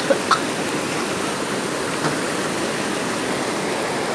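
Floodwater rushing: a steady wash of moving water, with a few short splashes in the first half second.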